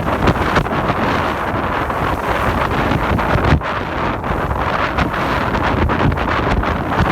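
Strong wind buffeting the microphone aboard a sailing yacht: a loud, steady rush with a gusty low rumble that never lets up.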